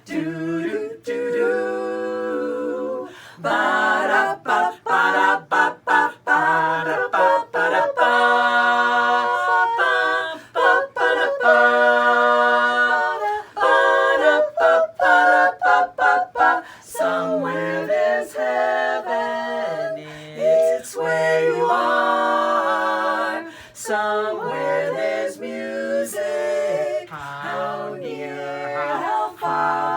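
Women's quartet singing a cappella in close harmony, on wordless scat syllables rather than lyrics. Stretches of short, clipped notes alternate with held chords.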